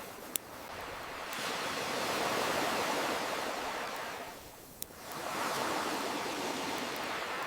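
Ocean waves washing ashore: one wave swells and recedes, then the next rolls in. Two sharp single pops from a crackling campfire sound over it, one just after the start and one about five seconds in.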